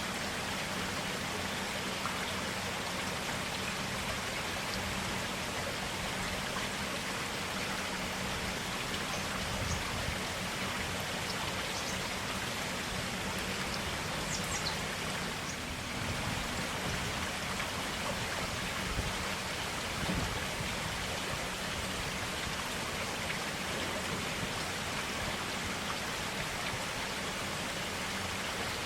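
Forest stream: clear water flowing and trickling steadily, with a few faint splashes.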